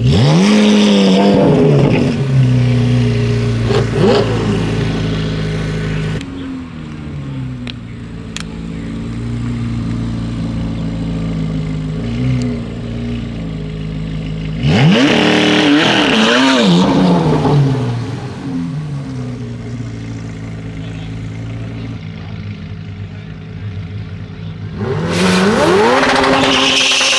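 Corvette Z06 V8 with an aftermarket exhaust revved hard three times, each rev a sharp rise and fall in pitch, settling back to a steady idle between revs.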